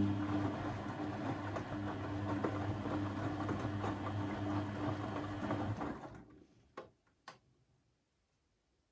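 Beko WMB 71643 PTE washing machine running with a steady low hum and a churning rush over it, which stops about six seconds in. Two short clicks follow about a second later.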